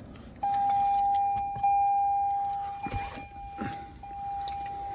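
A car's electronic warning chime holding one steady tone in long, slightly broken beats from about half a second in, with keys jangling and a few clicks and knocks of handling around it.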